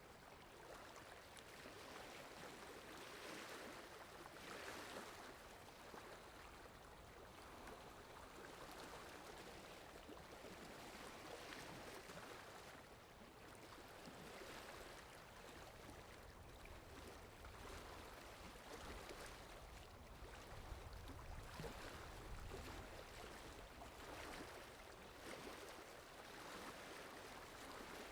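Faint water sound effect: a steady rush of flowing water that swells and eases every few seconds, with a low rumble joining in for a few seconds past the middle.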